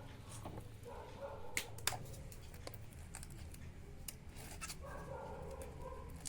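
Faint clicks and taps of hands handling kitchen things, with two sharper clicks a little under two seconds in, over a low steady hum.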